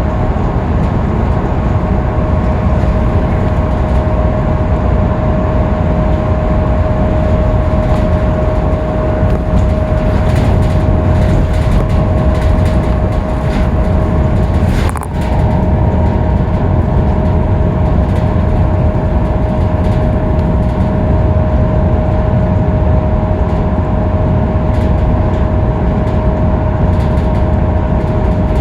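Scania K310UB bus cruising at freeway speed: a steady heavy rumble of engine and road noise with a constant high whine over it, and a short click with a brief dip in level about halfway.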